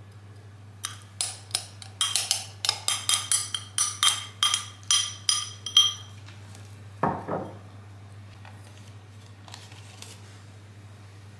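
A run of sharp metallic clinks with a ringing tone, about two or three a second for several seconds, followed by a short lower scrape.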